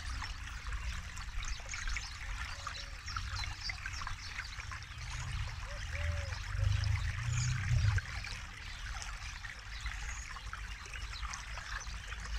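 Small forest river running over stones: a steady babble and trickle of flowing water. A low rumble swells for a couple of seconds in the middle and drops off suddenly near eight seconds in.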